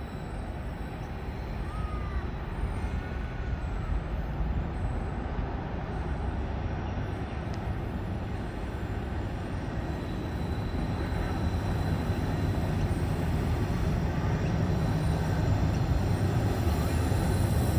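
Distant diesel locomotives of an approaching coal train: a low rumble that grows steadily louder.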